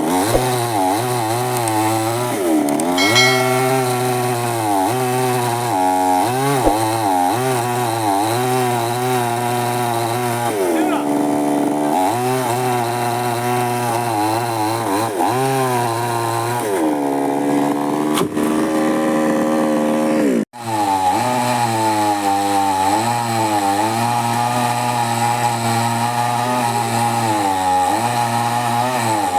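Chainsaw running and cutting wood, its engine pitch rising and falling as it bogs under load and revs back up. The sound cuts out for an instant about two-thirds of the way through.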